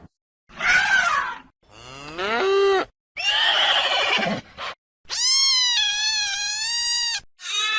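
A string of about five different animal calls one after another with short gaps between them; one rises in pitch, and the longest is a high, steady cry of about two seconds near the end.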